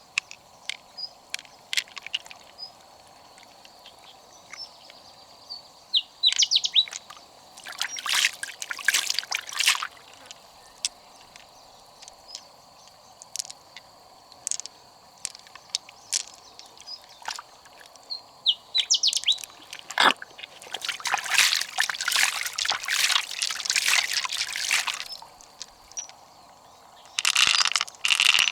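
Water sloshing and trickling in two longer bursts, with scattered small clicks and birds chirping now and then.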